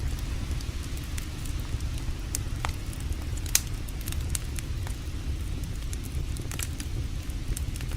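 Campfire crackling, with irregular sharp pops from the burning wood, the loudest about three and a half seconds in, over a steady low rumble.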